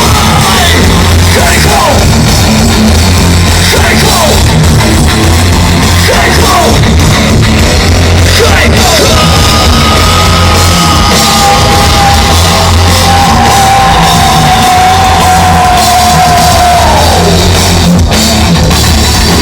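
Loud live rock music from a band, with shouted vocals over heavy bass and drums. From about halfway in, one long note is held, drops once, then slides down.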